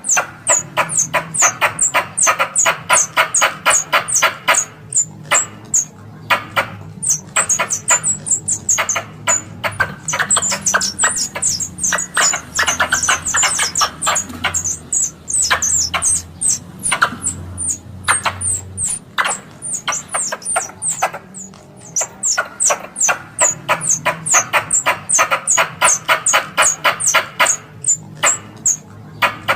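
Tree squirrel chattering calls used as a hunting lure: long runs of rapid, sharp, high chips, many a second, broken by brief pauses.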